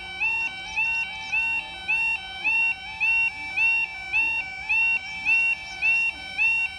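Level crossing warning alarm: the warbling two-tone 'yodel' sounder, alternating rapidly between a high and a lower tone about twice a second without a break. It signals that a train is approaching and the barriers are coming down or are down.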